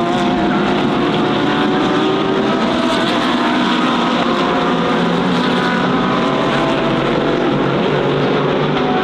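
A pack of GT3 race cars running hard at high revs as the field accelerates at the restart after a safety car. Several engines sound together in one steady, dense layer.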